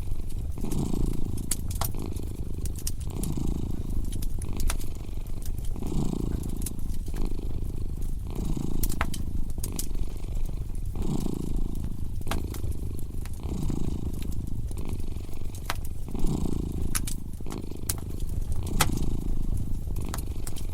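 A cat purring, swelling and fading about once a second, over a fireplace crackling with scattered sharp pops.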